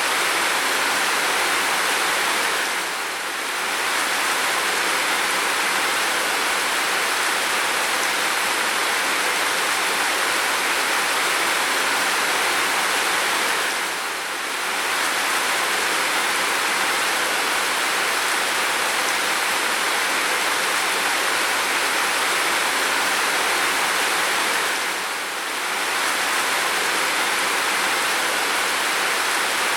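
Heavy rain falling in a steady hiss, dipping briefly in level about every eleven seconds.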